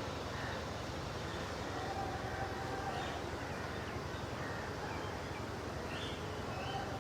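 A steady low rumble like distant traffic, with faint bird calls over it: a few short high chirps and two longer, lower held notes, one about two seconds in and one near the end.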